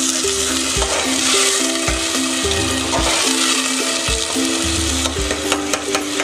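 Onion-tomato masala sizzling as it fries in an aluminium pressure cooker, stirred with a perforated metal spoon; the spoon clicks and scrapes against the pot several times near the end. Background music with a steady beat plays underneath.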